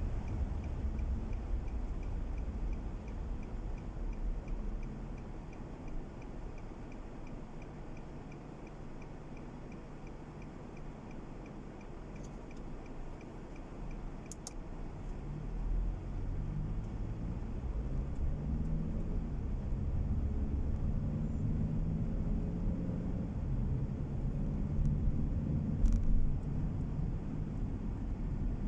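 Car driving, with a steady low engine and road rumble that eases off partway through. The engine then picks up again, its note stepping up in pitch as the car accelerates. A faint regular ticking runs through the first half and stops about halfway.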